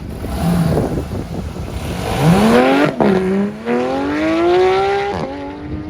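A car engine accelerating hard, rising in pitch through the gears. It upshifts about three seconds in and again a little after five seconds, then holds a steadier note.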